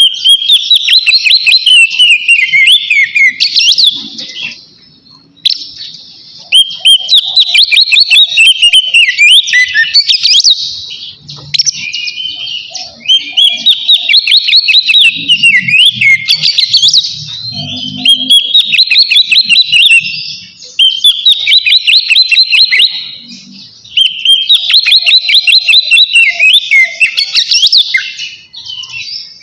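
Oriental magpie-robin (kacer) singing loud, open 'ngeplong' song, the kind used to call out a rival. It sings in repeated phrases of a few seconds each, fast runs of sweeping whistled notes, with short pauses between phrases.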